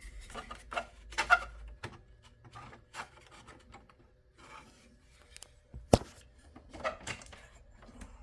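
Hands working inside a desktop computer case: short rubs, scrapes and clicks of plastic and metal parts, with one sharp click about six seconds in. A low hum cuts off just before two seconds in.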